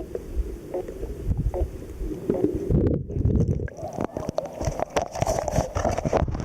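Muffled water sloshing and gurgling around a submerged waterproof camera beside a kayak, with soft knocks under the water. About three seconds in the sound turns brighter and crackly, with splashes and many sharp clicks.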